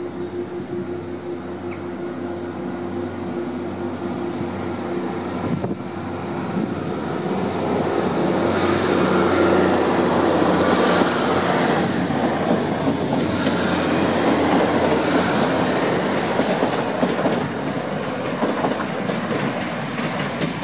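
Class 37 diesel locomotive engine running with a steady note, then the noise of train wheels on the track growing louder, with a rapid clatter of clicks over rail joints and points from about eight seconds in.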